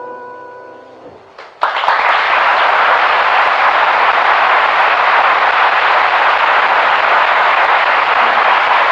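The last sung chord of a vocal ensemble dies away, then about a second and a half in audience applause breaks out suddenly and carries on steadily.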